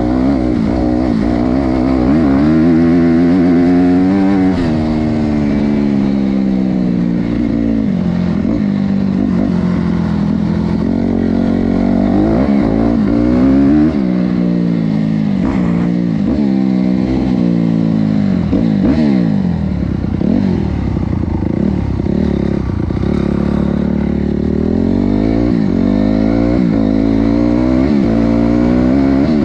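Honda CRF250R motocross bike's single-cylinder four-stroke engine being ridden hard, its pitch climbing and dropping over and over as it accelerates, shifts and backs off.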